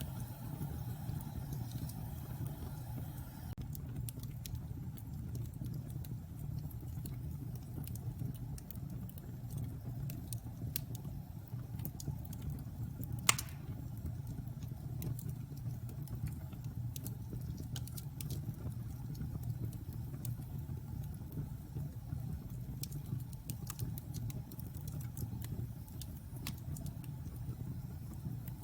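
Wood fire burning in a fireplace: a steady low rumble of the flames with scattered sharp crackles, and one loud pop about halfway through.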